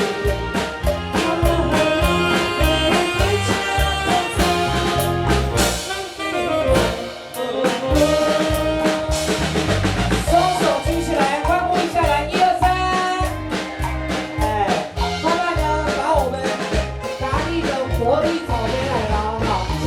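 Saxophone playing a melody over band accompaniment with a steady drum-kit beat.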